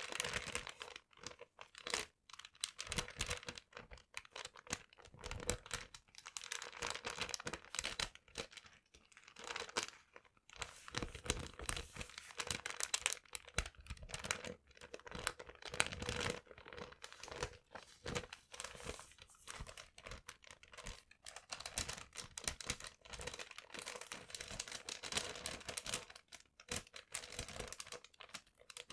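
Paper being crinkled and handled close to the microphone: dense, irregular crackling that comes and goes with short pauses.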